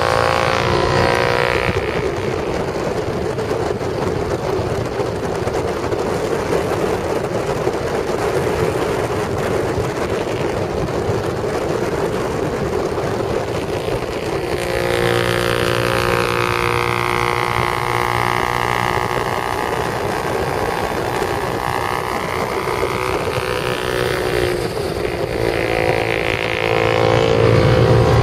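Honda XR250R dirt bike's four-stroke single-cylinder engine running at road speed alongside, mixed with wind and road noise. About halfway through, its pitch climbs and then falls away over several seconds.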